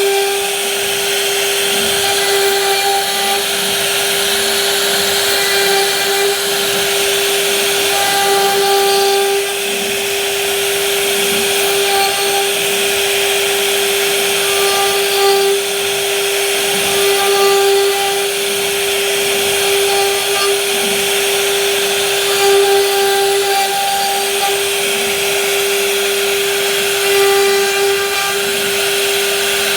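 CNC router spindle running with a steady high whine while its bit cuts wood, with the cutting noise swelling and easing.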